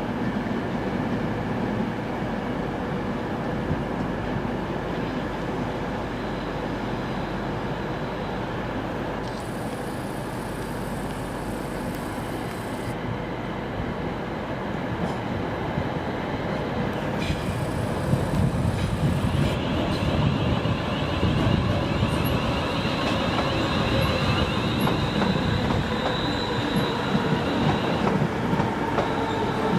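A train moving at a station platform, its noise growing louder about two-thirds of the way in, with a steady whine over the rumble near the end.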